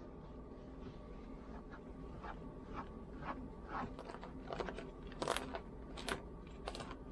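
A grooming brush drawn through a German shepherd's thick coat in short, irregular scratchy strokes, about one or two a second, the loudest a little past five seconds in.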